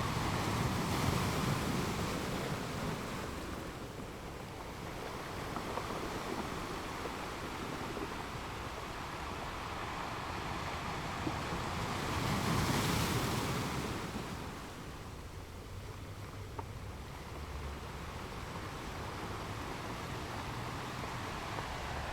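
Ocean waves breaking on a beach: a steady wash of surf with two larger waves, one at the start and one about halfway through, each swelling and ebbing over a few seconds.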